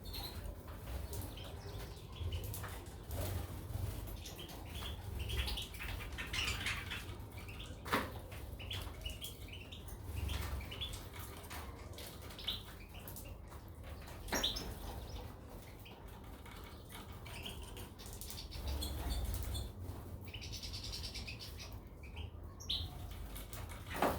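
Caged goldfinches and canaries fluttering and giving short chirps, with a few sharp clicks and a brief fast trill near the end.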